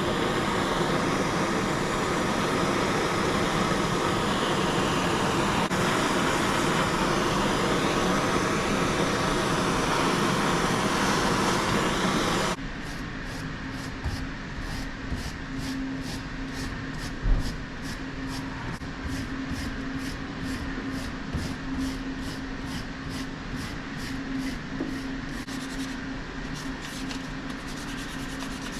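Torch flame running with a steady loud hiss while the knife handle is burned, cutting off suddenly about twelve seconds in. After it, rhythmic scraping strokes, about three a second, over a steady low hum: a wire brush worked over the burned handle.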